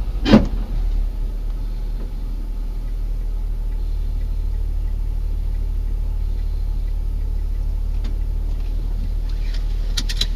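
Car engine idling steadily, a low hum heard from inside the cabin. One short loud sound about a third of a second in, and a few light clicks near the end.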